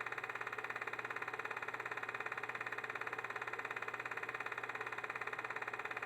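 Film projector running, its shutter and claw mechanism making a steady, rapid clatter of about seventeen beats a second over a low hum.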